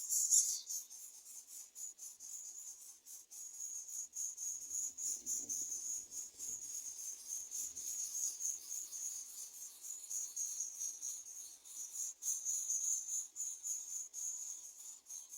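Insects trilling: a steady, high-pitched buzz with a fast, even pulse.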